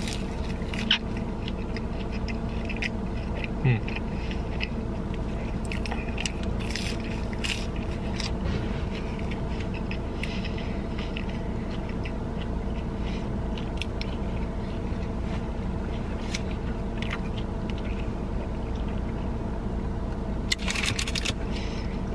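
Steady hum of a car's air conditioning running inside the cabin, with scattered short clicks and scrapes of eating: a plastic fork against a takeout container, rustling food and chewing.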